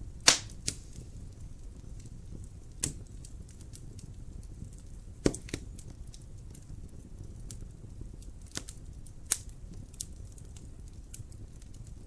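Wood fire crackling in a fireplace: sharp irregular pops and snaps over a low steady rumble of burning, with the loudest pop just after the start and others about 3, 5, 8.5 and 9 seconds in.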